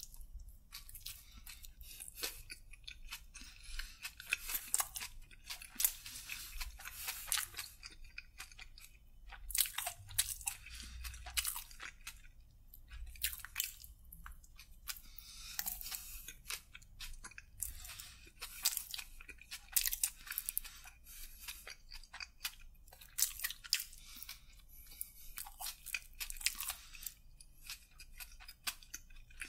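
Close-miked eating: bites and chewing of a crusty toasted sandwich roll, with crisp crunching crackles that come in clusters and pause briefly between mouthfuls.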